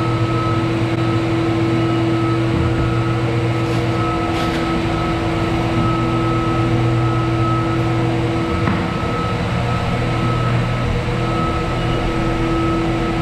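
Electric floor sander running steadily on an old hardwood floor with 120-grit paper: a continuous motor hum carrying a few steady tones over the grinding of the paper on the wood. The sander has no vacuum attachment.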